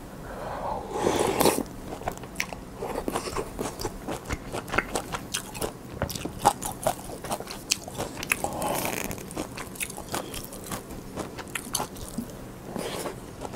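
Close-miked eating of rice and pollock roe soup: wet chewing and mouth clicks, several a second, with louder, longer sounds about a second in and again around nine seconds.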